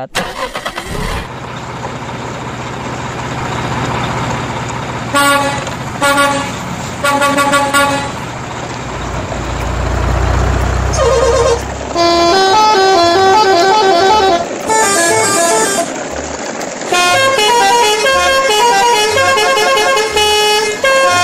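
Dubbed truck engine sound running and swelling, with three short horn toots a few seconds in. From about halfway on, a multi-tone horn plays a quick stepping tune over a regular low beat.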